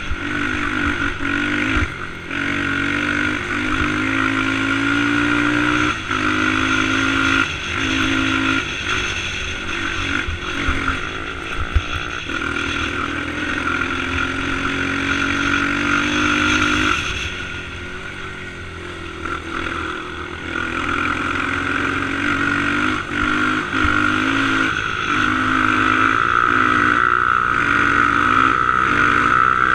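Dirt bike engine running under way, its pitch rising and falling with the throttle and easing off for a few seconds just past halfway.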